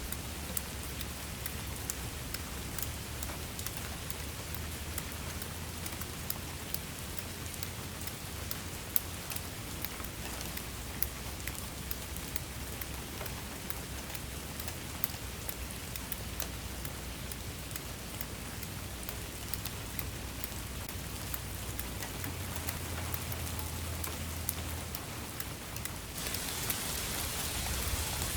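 Steady rain falling, a dense hiss with many individual drops ticking sharply and a low rumble underneath. Near the end the hiss suddenly grows louder and brighter.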